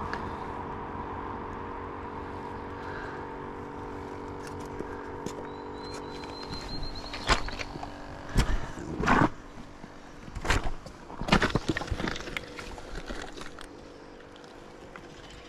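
A vehicle engine running steadily and slowly fading over the first half, followed by a run of sharp knocks and clatter.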